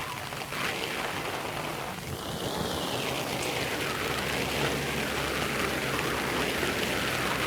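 Steady rain from Hurricane Eta falling on the floodwater, an even hiss with uneven swells.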